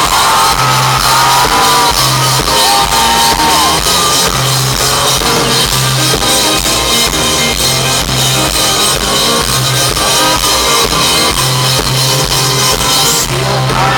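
A live rock band plays a loud instrumental passage with a steady pulsing beat, heard from among the audience. The bright top end drops away about thirteen seconds in.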